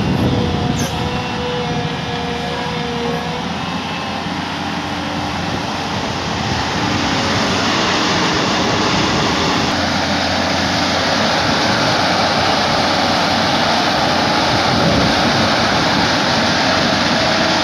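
Heavy diesel machinery running steadily, a dense, loud mechanical noise that grows a little louder about six to eight seconds in.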